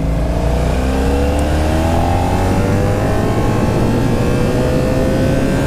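1983 Honda Sabre VF750S's 750cc V4 engine accelerating under load, its pitch climbing steadily, then dropping sharply at the very end as the rider shifts up a gear.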